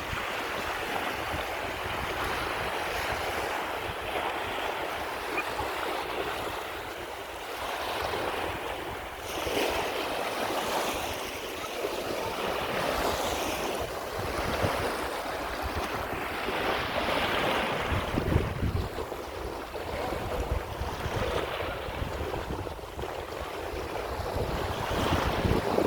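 Lake waves washing and breaking, swelling and easing every few seconds, with wind rumbling on the microphone, heavier in the second half.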